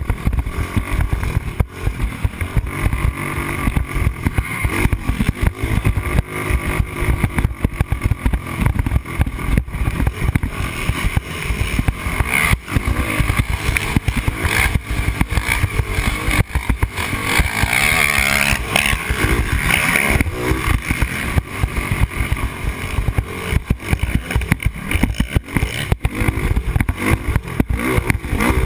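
Yamaha Raptor 250 quad's single-cylinder four-stroke engine revving up and down as it is ridden. Constant rough buffeting on the helmet-camera microphone runs through it.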